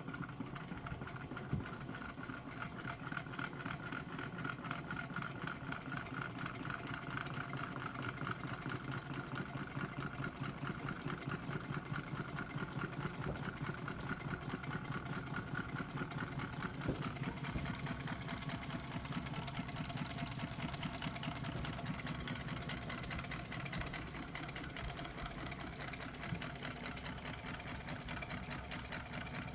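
Small Stirling engine with a water-cooled piston, running steadily with a fast, even mechanical clatter.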